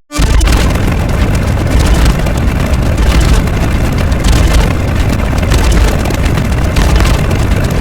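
Loud, steady rumbling noise, heaviest in the low end, after a sudden split-second drop to silence right at the start.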